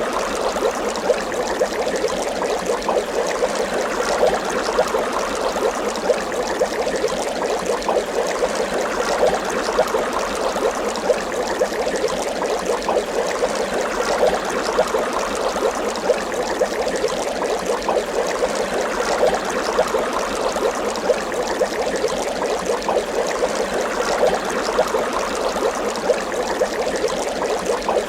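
Water bubbling steadily, a dense run of small bubbles gurgling and popping without pause.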